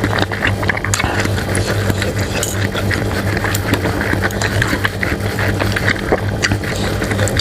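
Close-up eating sounds: chewing and slurping with many small, irregular clicks and crackles, over a steady low hum.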